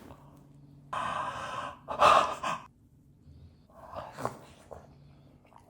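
A person's sharp, breathy exhalations or gasps, twice in quick succession about one and two seconds in, the second louder, followed by fainter mouth and breath sounds.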